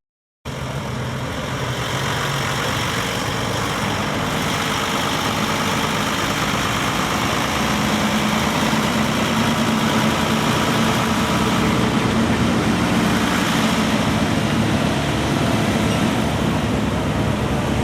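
Car engine running steadily, with a low hum that grows a little stronger about halfway through.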